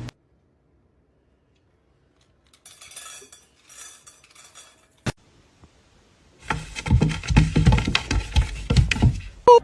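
Light clinking, a single sharp click, then a few seconds of rapid, loud clattering knocks of hard objects, ending in a brief high squeak.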